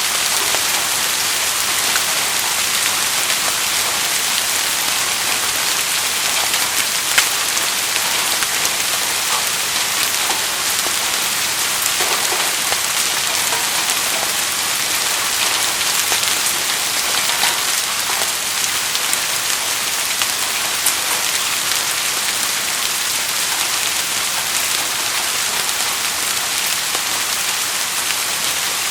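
Steady rain falling and pattering on surfaces, a constant hiss with scattered individual drop ticks.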